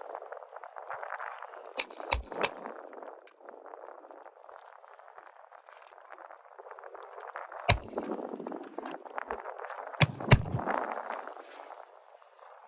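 Six sharp knocks: three in quick succession about two seconds in, one single knock near the middle, and two more close together about ten seconds in, each ringing briefly. A steady hiss runs underneath.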